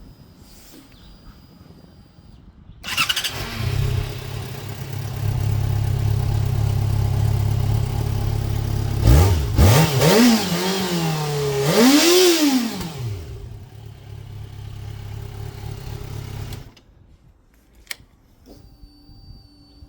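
Yamaha motorcycle engine starting about three seconds in and settling into a steady idle, then revved in several quick rising-and-falling throttle blips before dropping back to idle and shutting off suddenly near the end.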